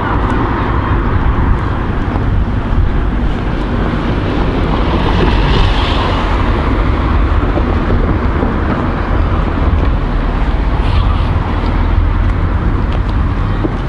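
Road traffic noise with a steady low rumble, and a vehicle going past about five to six seconds in.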